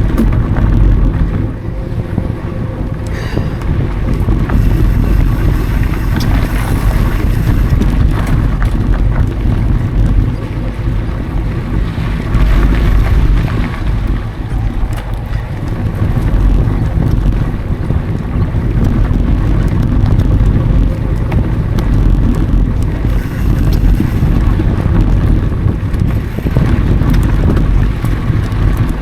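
Wind buffeting an action camera's microphone during a mountain bike ride, a loud continuous low rumble, with faint rattles and clicks from the bike going over the trail.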